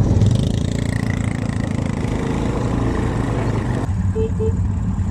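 Quad bike (ATV) engine idling steadily, a low even hum. About four seconds in the higher-pitched noise drops away, leaving mostly the low hum.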